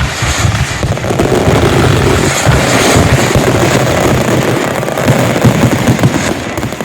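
Consumer fireworks firing in a dense, rapid barrage, their bangs and crackle overlapping without a break. It eases off at the very end.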